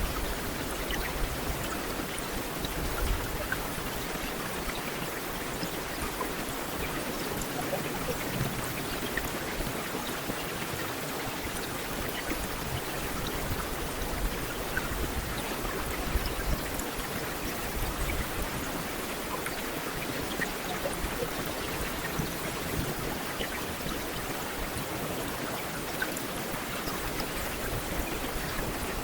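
Heavy rain falling steadily, a dense hiss of raindrops with scattered individual drops pattering on hard surfaces.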